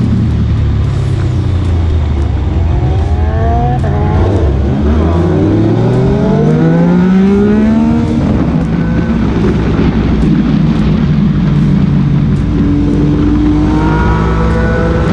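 Motorcycle engines accelerating hard. Their pitch rises in several overlapping sweeps in the middle and again near the end, over a steady low engine note.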